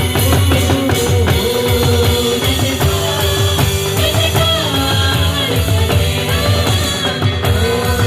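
Worship band music with a drum kit keeping a steady beat under sustained melodic lines.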